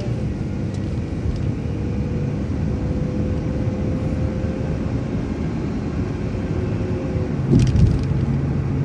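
City transit bus driving along a street, heard from inside: steady engine and road rumble with a faint whine. A few short rattles come near the end, as the low engine hum grows.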